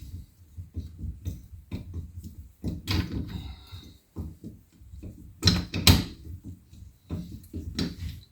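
Irregular metal clicks, clanks and knocks of hand tools and strut parts as the nuts holding a lift spacer on a truck's front strut are tightened, with sharper knocks about three seconds in and twice near six seconds in.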